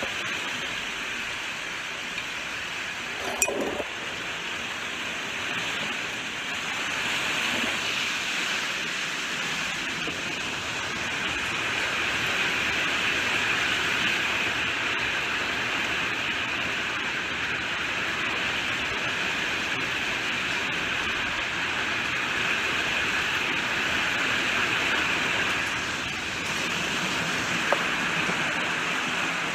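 Steady rainfall with a slow rise and fall in intensity. A single sharp tap stands out about three seconds in, with a fainter one near the end.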